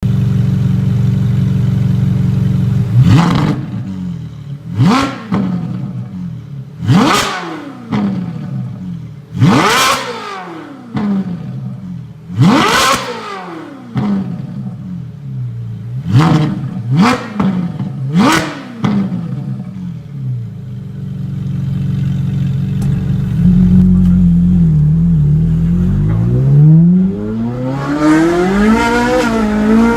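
Ferrari 458 Italia's naturally aspirated V8 breathing through an aftermarket S-Line sound exhaust: it idles, then is blipped about eight times, each rev shooting up and dropping back quickly. It settles back to idle, then near the end the revs climb more slowly and hold higher.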